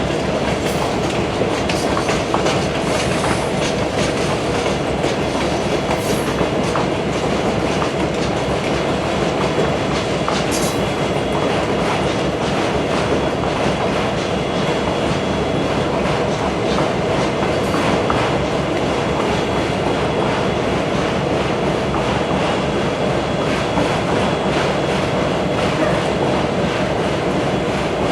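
Railway cars rolling past at close range: a steady, loud rumble of wheels on rail, with a continuous clickety-clack of wheels over rail joints.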